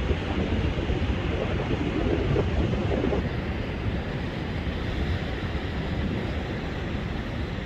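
Rough storm surf breaking and washing in a steady roar. Strong wind buffets the microphone with a deep rumble.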